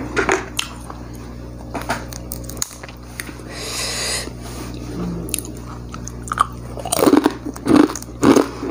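A person eating fried duck by hand, picked up close by a clip-on microphone: small crisp clicks and crunches as the meat is torn and bitten. From about seven seconds in comes loud, rhythmic chewing, about two chews a second.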